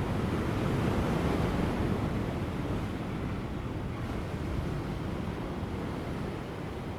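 Ocean surf: large waves breaking on rocks offshore, a continuous wash of rushing water that swells in the first couple of seconds and slowly eases, with light wind.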